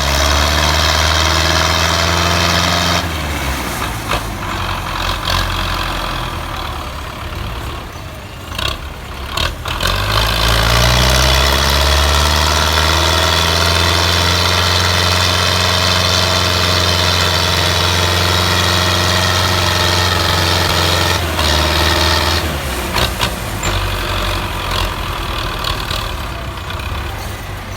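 Belarus 510 tractor's four-cylinder diesel engine working hard, pulling a heavily loaded sugarcane trailer. Its revs climb about ten seconds in, hold steady for about ten seconds, then drop away, with a few sharp knocks just before the climb.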